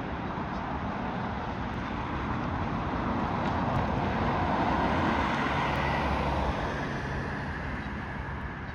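A passing vehicle, its steady noise rising to a peak about five seconds in, then fading.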